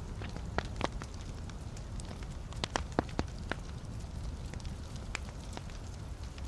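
Wood fire burning in a fireplace: a steady low rumble of the flames with irregular sharp crackles and pops from the logs, a quick run of louder pops about three seconds in.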